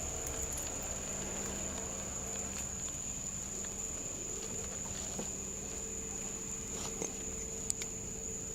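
Insects, likely crickets, trilling steadily and high-pitched in the night air, over a faint low hum, with a couple of small clicks near the end.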